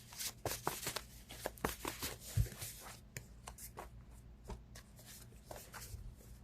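A deck of tarot cards being shuffled by hand: a quick run of soft card flicks and riffles, thinning out after about three seconds, with one dull knock about two and a half seconds in.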